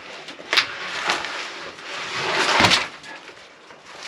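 Handling noises on the freshly sawn spruce log: a couple of sharp knocks, then a short scraping rustle that ends in a dull thud.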